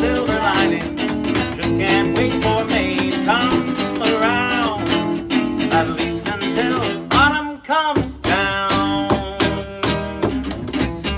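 Swing-grass band music: strummed acoustic guitar under a melody line that slides in pitch. The music drops out briefly about seven and a half seconds in, then picks up again.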